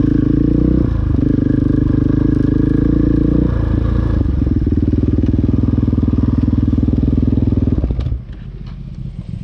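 KTM dirt bike engine running under throttle on a rocky trail, the engine note stepping down a couple of times, then the throttle closing about eight seconds in, leaving a quieter engine with scattered clicks and clatter.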